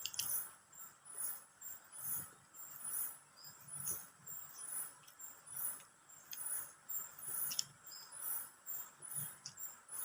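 Insects chirping in a steady, even rhythm, about one and a half high-pitched pulses a second, with a few soft clicks and low thuds of chewing.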